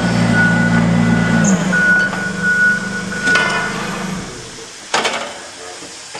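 A work vehicle's engine running with its reverse alarm beeping steadily. The engine fades away about a second and a half in, and the beeping stops a little past the middle. A single sharp knock comes near the end.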